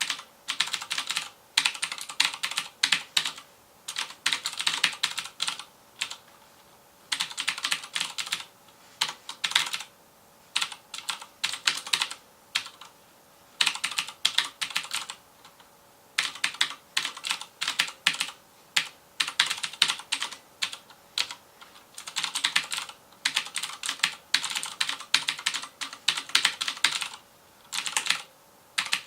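FILCO Majestouch Convertible 2 mechanical keyboard with clicky Cherry MX Blue switches being typed on quickly: rapid runs of keystroke clicks lasting a second or two each, with short pauses between them.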